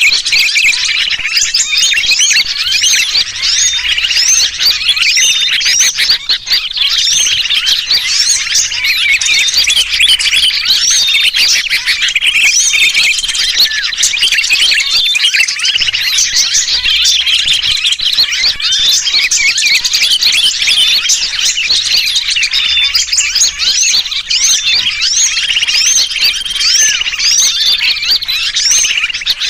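Bird-lure recording: a dense, continuous chorus of many small birds chattering, mixed with the distress calls ('kejepit', caught or pinched) of a sooty-headed bulbul. The calls are high, quick chirps and short whistled glides, overlapping without a pause.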